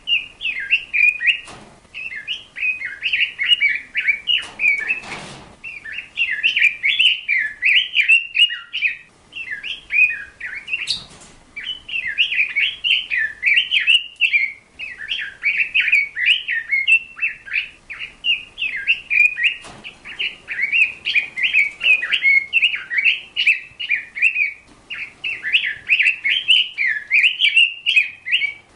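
A bird chirping rapidly and almost without a break.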